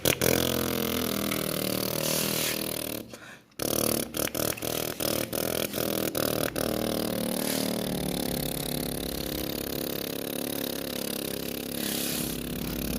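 Toy tractor running: a steady pitched hum that drops out briefly about three seconds in. From about four to six and a half seconds a run of regular clicks, about three a second, sounds over the hum.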